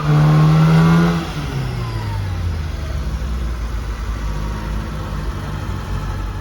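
A car engine holding steady high revs, then dropping in pitch over about half a second as the revs fall, settling into a lower steady drone with road noise.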